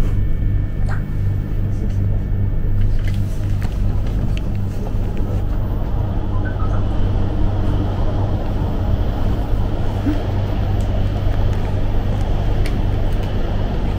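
Train running: a steady low rumble with a constant hum.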